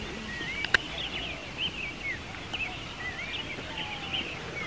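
Several birds calling, a steady scatter of short rising and falling chirps and whistles, over a low outdoor hiss. One sharp click about three quarters of a second in.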